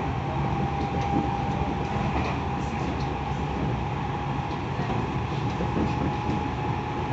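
Tokyo Metro 10000 series electric train heard from inside the carriage, running steadily: an even rumble of wheels on rail with a steady tone over it.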